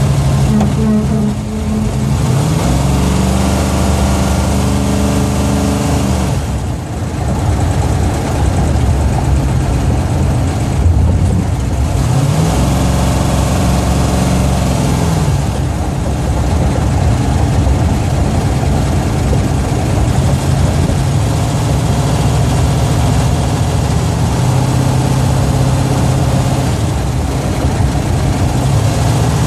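Plymouth Duster's 440 big-block V8, heard from inside the cabin while driving. The revs rise twice in the first half, each time falling off as the car shifts, then settle into a steady cruise over road noise.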